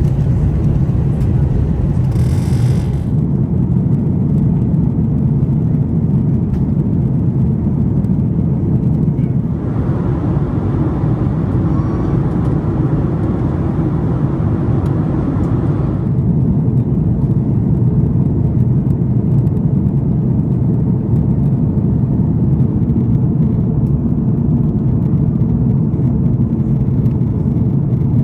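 Steady low drone of an Airbus A340-600 airliner cabin, its four Rolls-Royce Trent 500 engines and the airflow running without change. A brighter hiss joins it from about ten to sixteen seconds in.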